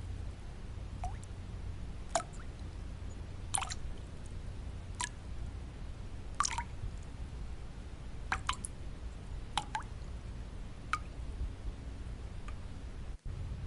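Single water drops falling one at a time at an irregular pace, about ten short plinks, over a steady deep white-noise bed. The sound cuts out for a split second near the end.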